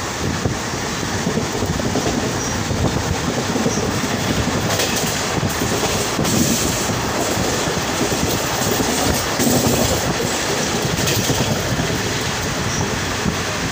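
An Indian passenger train running along the track, heard from inside the carriage at an open, barred window: a steady, loud rumble and rush of wheels on rails.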